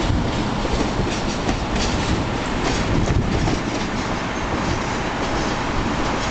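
Norfolk Southern executive-train passenger cars rolling past, a steady rumble of steel wheels on rail with light clicks over the rail joints.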